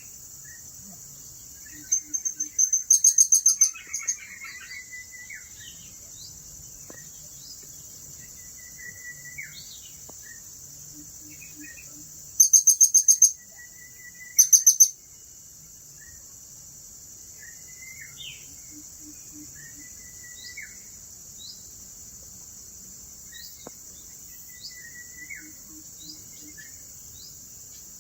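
Serindit (blue-crowned hanging parrot) calling: three loud bursts of rapid, high-pitched repeated notes, the first about two seconds in and the others near the middle, with short chirps scattered throughout. A steady high insect drone runs underneath.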